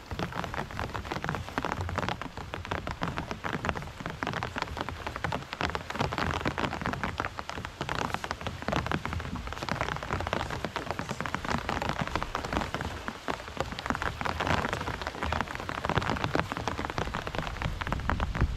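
Steady rain falling on the bass boat and the lake: a dense hiss of many small drop impacts, growing slightly louder near the end.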